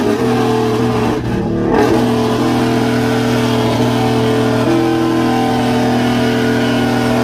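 Engine of a drag-strip vehicle held at steady high revs, with a brief dip about a second and a half in before the revs hold again.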